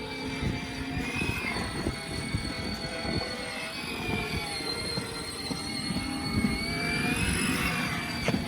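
Ride-on toy train's 12-volt electric drive motors and gearbox whining as it drives, the pitch drifting slightly with speed, over a low rattle from the wheels rolling over the ground.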